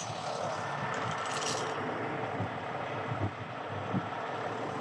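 Diesel truck engine idling steadily, with a brief light metallic clinking of chain about a second and a half in.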